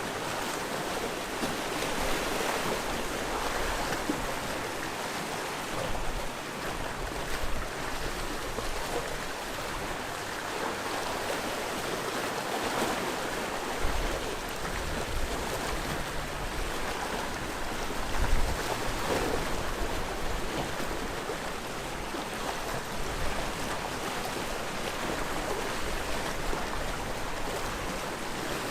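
Sea waves washing against a rocky shore in a continuous rush, swelling and easing, with occasional low thuds. The sharpest thud comes about 18 seconds in.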